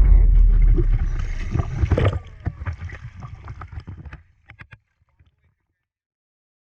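Boat and water noise: a low rumble with scattered knocks and clicks, fading out to silence about five seconds in.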